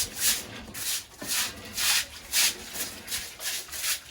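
Rhythmic scraping or brushing strokes, about two a second.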